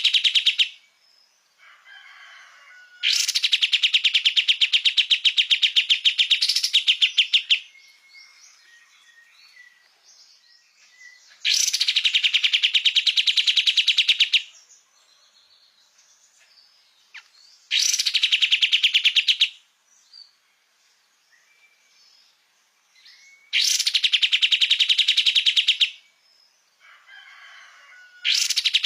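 Pied triller (kapas tembak) in full song: long, very rapid trills of a few seconds each, repeated about every five to six seconds, with faint softer calls in the gaps.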